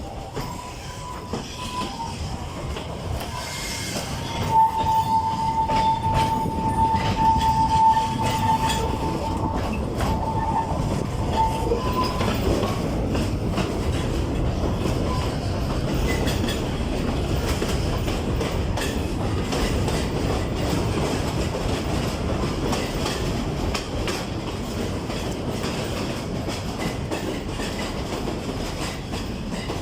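Narrow-gauge forest railway train running, with steady wheel-and-rail noise. A high, wavering wheel squeal sounds over it for the first twelve seconds or so, then fades, leaving the steady running.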